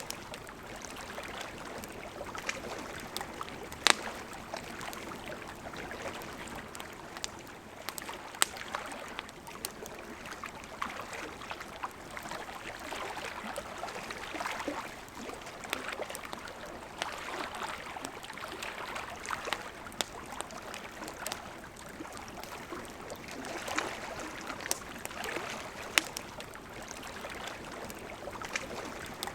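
Campfire crackling, with sharp pops every few seconds, over the steady rush of a river.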